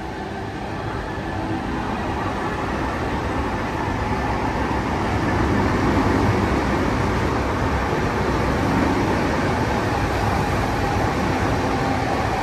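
VR Pendolino Sm3 electric tilting train moving past close by: wheels running on the rails with the train's running noise. It grows steadily louder over the first half, then holds steady.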